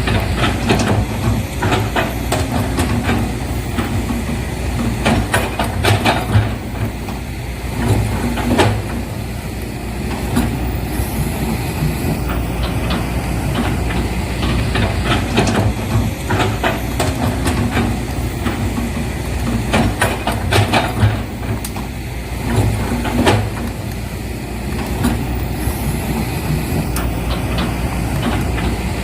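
Steady low engine rumble with irregular clicks and knocks scattered through it.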